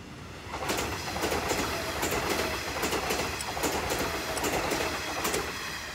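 Nishitetsu electric train running past on the tracks: a rush of wheel and running noise with scattered rail-joint clacks, swelling up about half a second in and fading away near the end.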